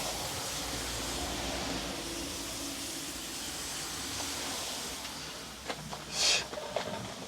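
Water hissing steadily as it sprays from a leaking pipe just below a stop tap, fading after about five seconds. Near the end come a short, louder hiss and a few light clicks and knocks.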